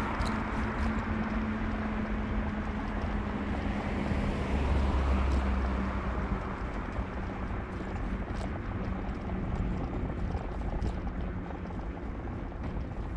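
Car driving: steady engine hum and road noise, with a low rumble swelling briefly about five seconds in.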